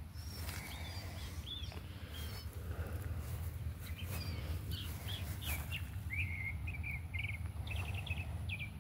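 Small birds chirping in short quick notes, scattered at first and in rapid runs in the second half, over a steady low rumble.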